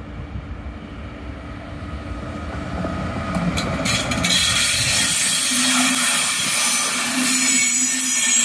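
A Flixtrain passenger train hauled by a Siemens Taurus (ES 64 U2) electric locomotive approaching and passing close by. The sound grows louder until the locomotive goes past about four seconds in, then stays loud as the coaches roll by.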